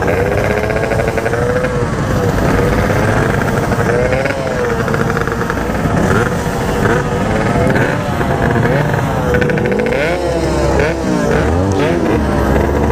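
Yamaha RX-King two-stroke single-cylinder motorcycle engine revving under way, its pitch rising and dropping again and again as it pulls through the gears.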